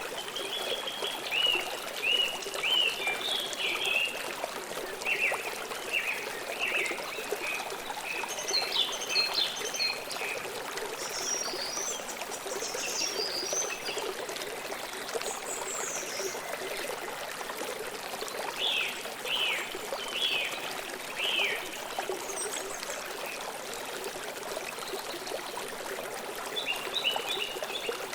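A river flowing steadily, with small birds chirping over it in short runs of quick high notes every few seconds.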